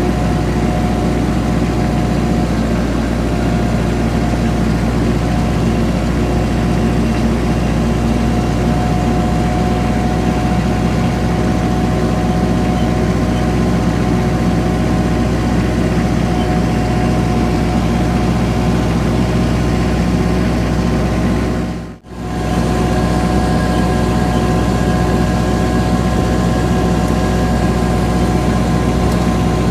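An engine idling steadily. The sound drops out briefly about two-thirds of the way through, then returns unchanged.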